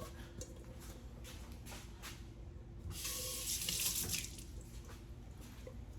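Kitchen tap running into a sink for about a second, starting about halfway in, with a few faint clicks before it.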